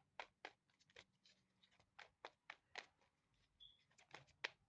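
Faint, irregular clicks and taps, about a dozen short sharp ones, of small objects being handled.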